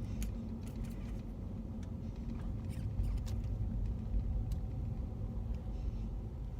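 Car running, heard from inside the cabin: a steady low rumble with a faint steady hum, and a few small clicks.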